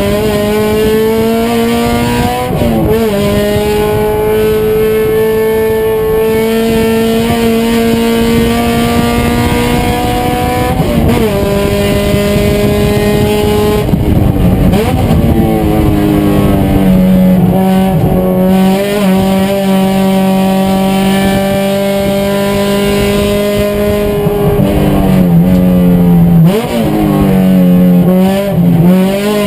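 Race car engine running hard at high revs, holding a steady pitch for long stretches, with several brief dips in pitch before it picks up again.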